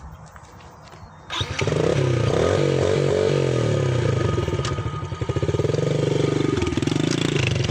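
Dirt bike engine starting about a second in, then running with the revs rising and falling as the throttle is worked.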